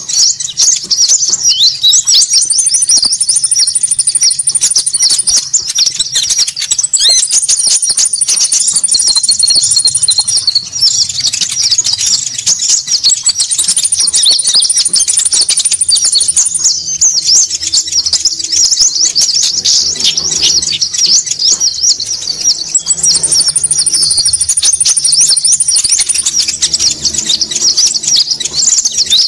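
Konin bird lure call: a dense, noisy chorus of rapid high chirps from many birds at once. A long, very high, thin trill comes in four times over it.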